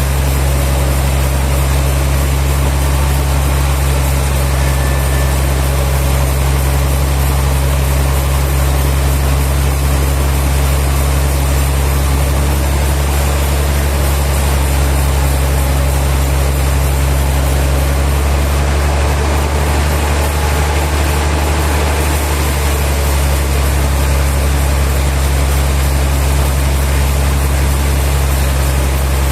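Sawmill machinery running steadily: a loud, constant, deep engine-like hum with a noisy wash over it. About two-thirds of the way through, the deepest part of the hum briefly weakens, then returns.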